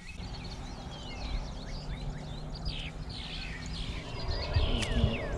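Several birds chirping, many short calls that slide quickly downward in pitch, over a low, steady background rumble.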